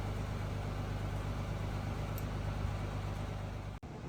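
Diesel engine of a 2023 Seagrave Attacker fire engine idling with a steady low hum. The sound cuts out abruptly for a moment near the end.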